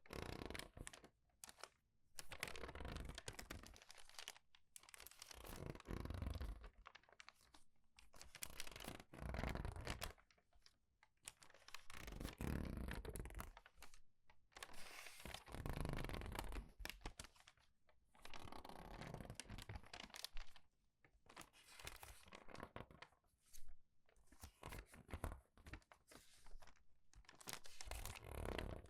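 Crinkled paper pages being turned quickly and squeezed by hand, one crinkly rustle every second or two with short pauses between.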